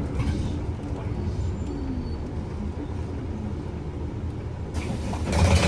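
Steady low engine and road rumble inside a city bus as it comes in to a stop, with a sudden burst of air hiss from its pneumatics near the end.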